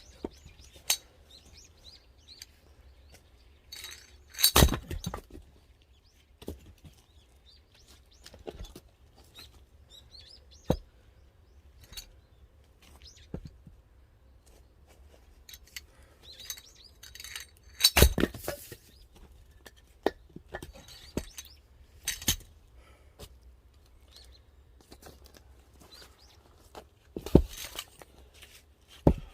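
An axe splitting firewood: irregular sharp cracks and knocks as the blade bites and the wood splits, three blows much louder than the rest, with smaller knocks and clinks of pieces between.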